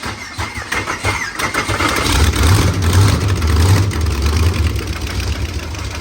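Small-block Chevy V8 of a 1985 Trans Am race car starting up and running, louder from about two seconds in.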